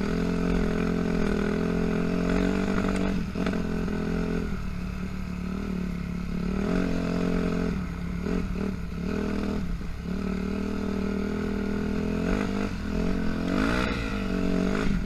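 Yamaha YZ dirt bike engine running at a steady speed, its pitch rising and falling briefly near the end.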